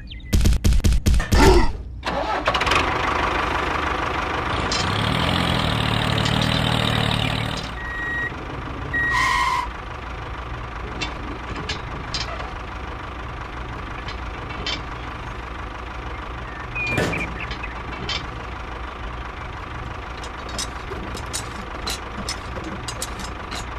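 An engine cranking with a rapid run of knocks, catching, then running steadily.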